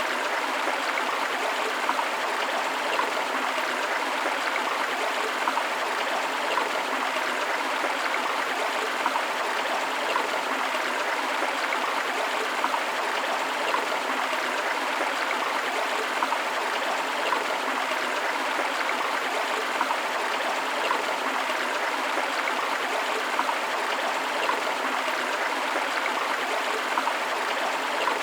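A forest river running over rocks: a steady rush of water with small splashes and gurgles rising briefly out of it, and little deep rumble underneath.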